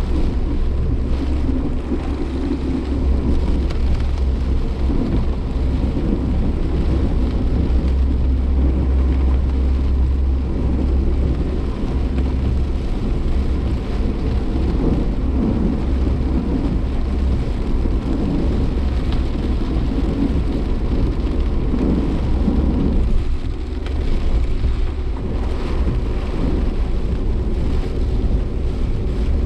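Inside a Suzuki Jimny Sierra driving through typhoon wind and rain: a steady, loud low rumble of wind and road noise with rain on the body and the engine running under it. The rumble eases briefly about 23 seconds in.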